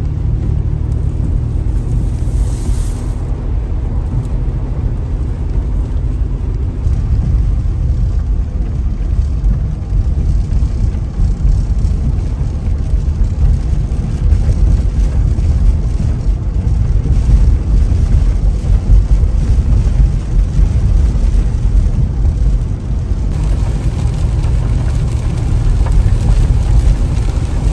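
Steady, loud low rumble with an even hiss above it, like a car's road noise.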